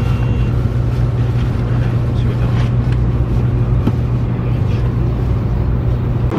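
Cabin noise of a Taiwan High Speed Rail train running at speed: a steady low hum under an even rushing noise, with a few faint light clicks.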